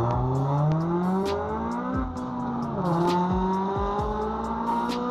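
Honda Civic Si's K20Z3 four-cylinder engine, fitted with a cold air intake and bored throttle body, accelerating hard from inside the car. The revs climb steadily, drop with an upshift between two and three seconds in, then climb again.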